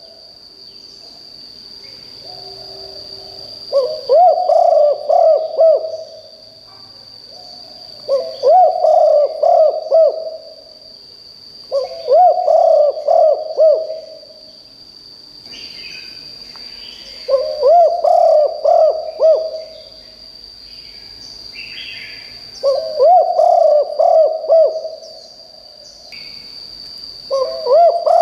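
Spotted dove cooing its territorial song: a loud two-second phrase of several hooting notes, repeated about every four to five seconds, six times. A steady high-pitched whine runs underneath, with a few faint chirps from other birds.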